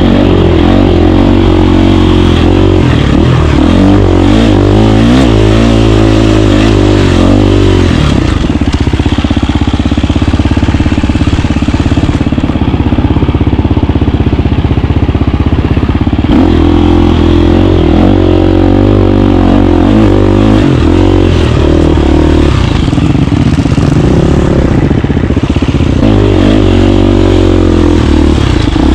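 KTM 350 dirt bike's single-cylinder four-stroke engine running loud and close under riding load, its revs rising and falling continuously as the bike is ridden.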